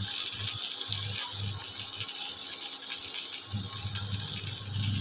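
Basmati rice and green beans frying in ghee in a nonstick pan, a steady sizzling hiss, as a silicone spatula stirs and turns the rice. A low hum comes and goes underneath.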